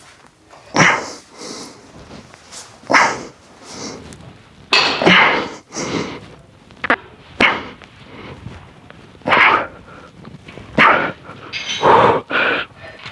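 A string of short, forceful breaths or grunts from a person straining through dumbbell lateral raises, roughly one every second or so.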